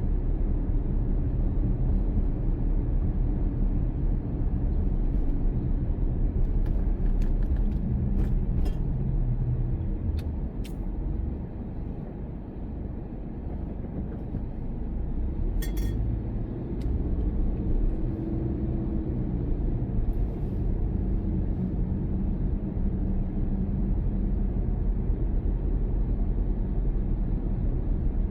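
Car driving: a steady low engine and road rumble that eases off for a few seconds near the middle and then builds again, with a few faint light clicks.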